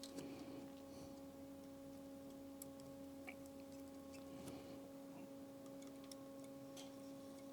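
Near silence with a faint steady electrical hum and a few faint small ticks.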